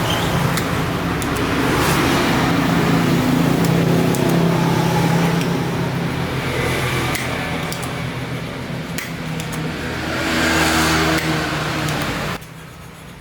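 A motor running steadily with a low hum and some clicking, swelling twice and dropping away sharply near the end.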